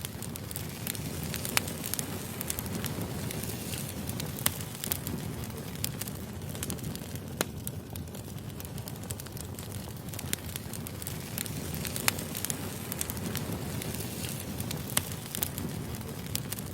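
Firewood burning: a steady low rumble of flames with sharp crackles and pops at irregular moments.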